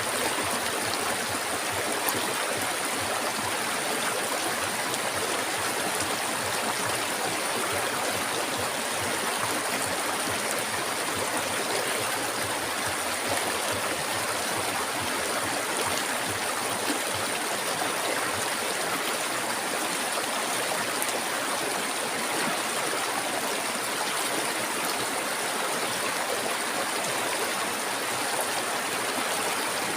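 River water flowing steadily over rocks, an even rushing and babbling that does not change.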